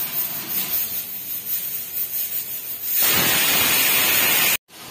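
Chicken feet sizzling and crackling in a hot stainless steel pot on a gas burner. About three seconds in, the hiss gets much louder, then cuts off abruptly.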